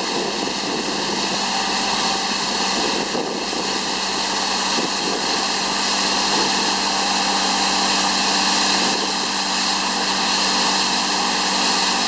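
Tuchel WB 750 weed brush running, its hydraulically driven disc brush spinning against the ground, over the steady engine of the machine carrying it. It is an even, continuous hiss with a low steady hum.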